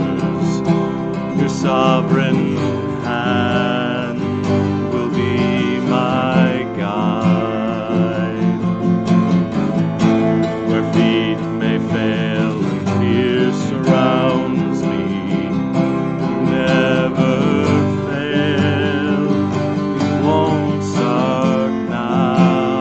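Twelve-string acoustic guitar strummed in a steady rhythm, with a held, wavering melody line over it.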